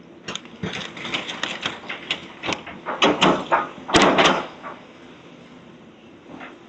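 Demolition debris crashing and clattering in a rapid string of knocks, heaviest about three to four and a half seconds in, over the steady hum of a machine engine.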